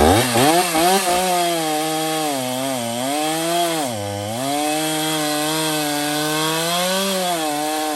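Stihl chainsaw revving up at the start and cutting through wood at high throttle, its engine pitch dipping twice as the chain bogs down in the cut.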